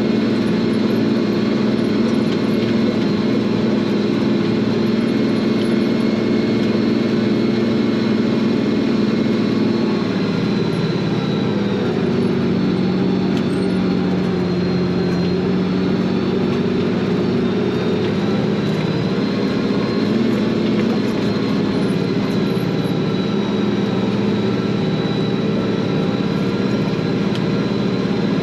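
Tractor engine running steadily under load while pulling a field cultivator, its note shifting slightly about ten seconds in.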